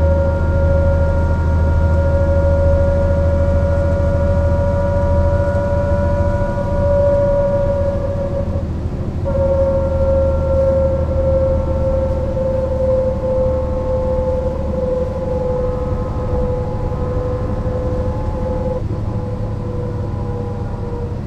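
Mercedes-Benz O 405 NÜ low-floor bus running: a deep rumble under a high, steady whine that falls slowly in pitch, breaking off briefly about nine seconds in.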